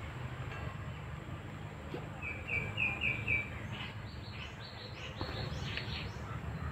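Small birds chirping over a low, steady background hum: a quick run of about five chirps on one pitch about two seconds in, then a faster series of higher chirps a second or so later.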